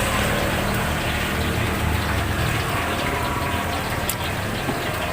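Heavy rain falling steadily, an even hiss, with a low steady hum underneath and one brief tick about four seconds in.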